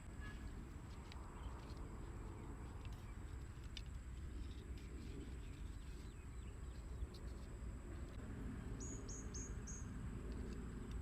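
Outdoor ambience: a steady high insect drone over a low rumble, with scattered small clicks. A bird gives four quick chirps a little under nine seconds in.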